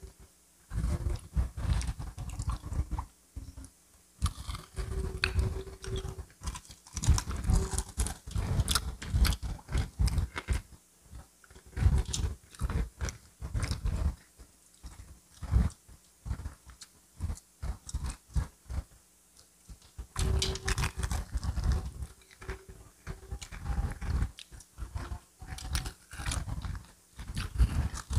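Close-miked chewing and crunching of crispy fried chicken: irregular bites and crunches of the fried coating, with short pauses between mouthfuls.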